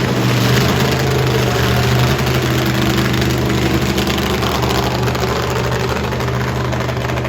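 Monster truck engine idling with a loud, steady rumble, without revving.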